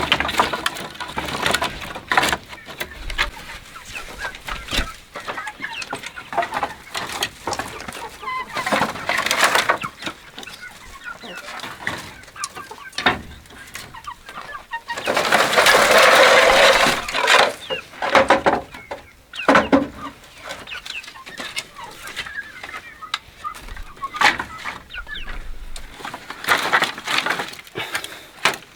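Chickens clucking, among scattered short clicks and knocks, with a louder noisy stretch lasting a couple of seconds about halfway through.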